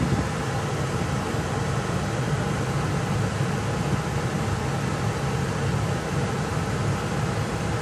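Steady low rumble of an MBTA commuter rail train running through a grade crossing, unchanging in level throughout.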